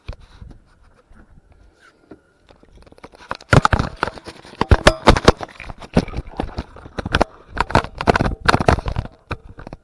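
Irregular clatter of sharp knocks and scrapes from gear being handled in a fishing boat while the landing net is readied. It starts about three and a half seconds in and goes on in dense clusters for about five seconds.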